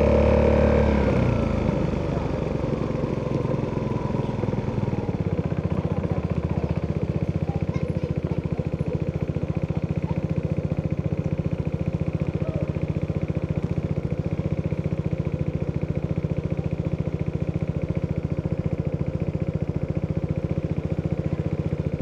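Italjet Dragster 200's single-cylinder four-stroke engine through an Akrapovic exhaust, dropping off with a falling note in the first second or two, then idling steadily with an even pulse.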